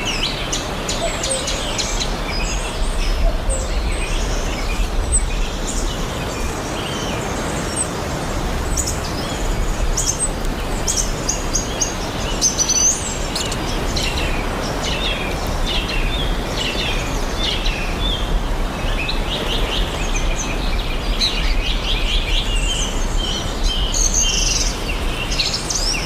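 Forest ambience: many birds chirping and calling in quick short notes over a steady background hiss.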